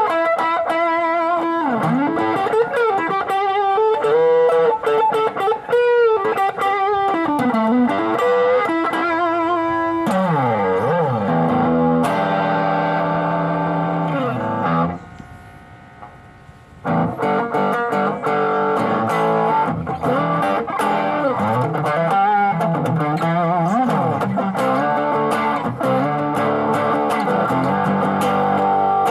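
Electric guitar played through a clone of the ProCo RAT distortion pedal. It plays wavering, vibrato-laden single-note lead lines, then lower sustained chords. About halfway through it drops off for a couple of seconds, then comes back with busier picked playing.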